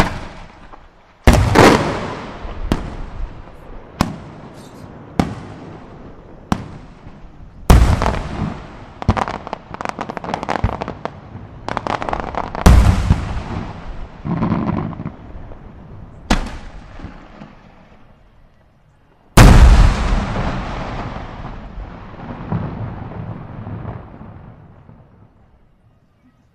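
Aerial firework shells and salutes exploding in a rapid string of sharp bangs, each dying away in a long echo. The heaviest reports come about a second in, near eight and thirteen seconds and near twenty seconds, and the last echo fades out near the end.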